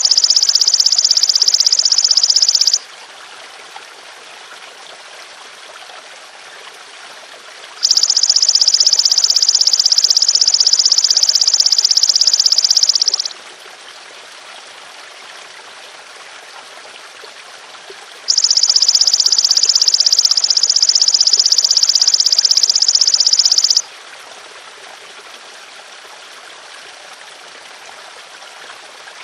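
Belalang emas (golden grasshopper) calling in long, high, rapidly pulsed buzzing trills, three bouts of about five seconds each with gaps of about five seconds between them. Steady trickling water runs underneath throughout.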